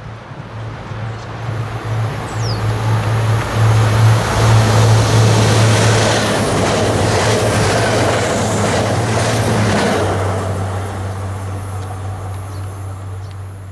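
A regional passenger multiple-unit train passing along the platform track. Its noise builds to its loudest about four to six seconds in, with a steady low hum underneath. Quick clacks of the wheels run from about six to ten seconds, then the sound fades as the train draws away.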